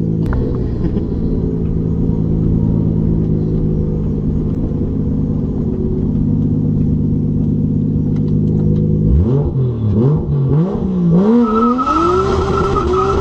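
Car engine running at a steady pitch, then revving hard from about nine seconds in, with quick rises and falls in pitch as the driver works the throttle and gears, climbing to a high held pitch near the end.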